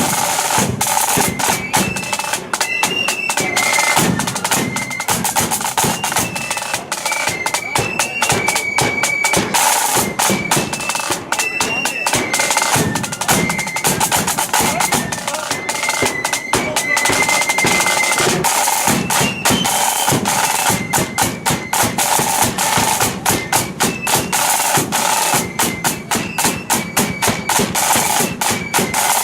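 Blood-and-thunder flute band playing a march: shrill flutes carry a stepping tune over loud, rapid snare drum rolls and drumbeats.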